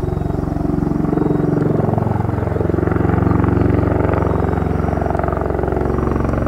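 Bell Boeing MV-22B Osprey tiltrotor's twin proprotors beating rapidly over a low droning hum, steady and loud, as it comes in to land.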